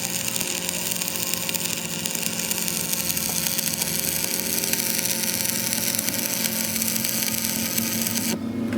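A power tool running steadily, a strong hiss over a low hum, that stops suddenly near the end.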